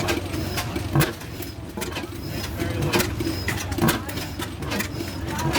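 A 1907 20 HP oil field hit-and-miss engine running, with sharp knocks and clicks roughly every second over a steady low rumble.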